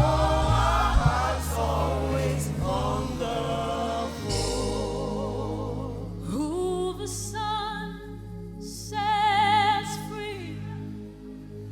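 Slow gospel worship music: singers over a sustained band accompaniment, with long held, wavering vocal notes in the second half.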